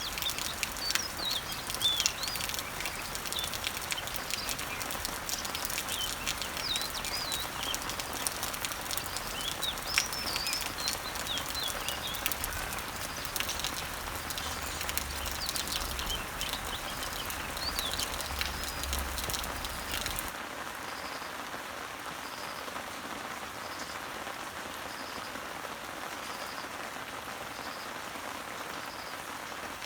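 Rain falling on leaves and trees, with many separate drops pattering, and small birds chirping over it. About two-thirds of the way through, the sound changes to a softer, steadier rain with a faint short high note repeating about once every second and a bit.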